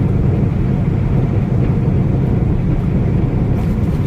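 Steady low rumble of a semi truck running, with no change in level.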